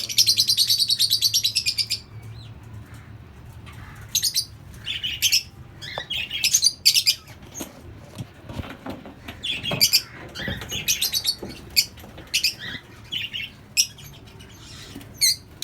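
Small pet parrots in a colony, lovebirds among them, chirping and chattering: a dense burst of rapid high chatter for the first two seconds, then scattered short chirps and squeaky calls.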